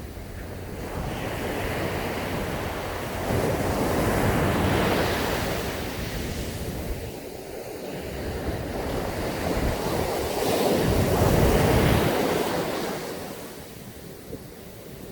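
Ocean waves breaking and washing up a sandy beach, in two big swells about a third and three quarters of the way through, with some wind on the microphone.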